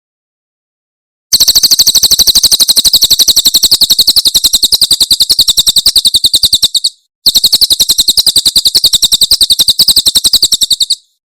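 Cililin bird singing its rapid 'tembakan' trill, a loud, high, machine-gun-like run of evenly spaced notes. It comes as two long bursts, the first starting about a second in and the second after a short break at about seven seconds.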